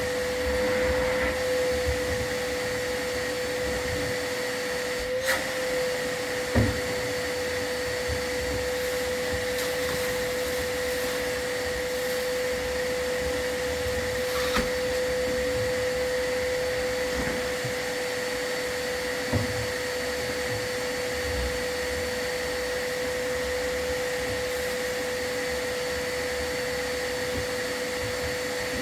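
A vacuum motor running steadily with a constant whine, as a sweep's dust-control vacuum does while a fireplace and flue are cleaned. A few brief knocks come through it.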